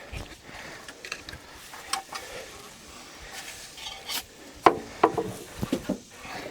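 Scattered light metallic clinks and scrapes, with a few sharper knocks about five seconds in, from metal parts being handled.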